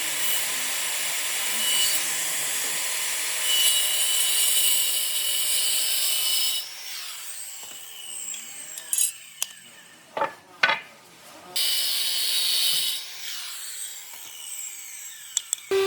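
A power tool cutting or sanding wood, running steadily in two stretches. In the pause between them there are a few sharp knocks and clicks of wood being handled.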